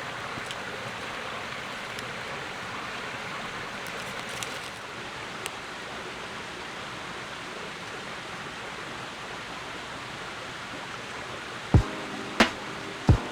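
Steady rushing outdoor noise, like running water, with a couple of faint clicks. Near the end, sharp struck notes with ringing tones come in as music begins.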